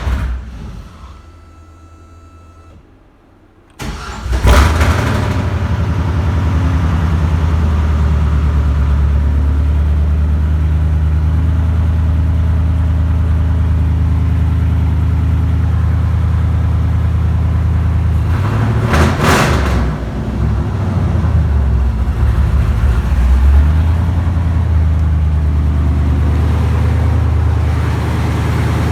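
Freshly built supercharged 6.0 LS V8 fires for the first time about four seconds in, then runs loud and steady. There is one brief louder burst just before the twenty-second mark.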